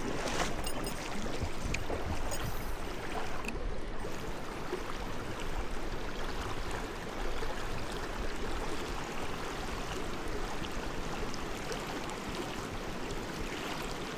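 Clear mountain stream flowing steadily, an even rush of running water.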